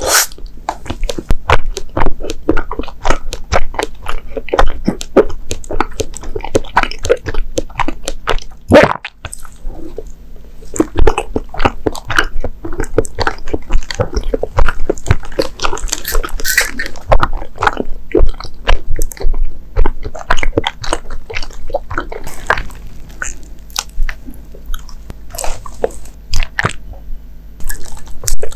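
Close-miked chewing of mitarashi dango, soft rice dumplings in a sweet soy glaze. There is a bite right at the start, then a dense run of small, sharp mouth clicks as the sticky dough is chewed.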